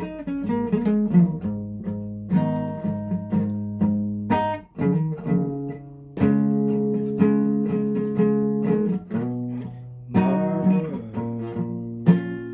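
Acoustic guitar strumming chords, each chord struck and left to ring before the next change.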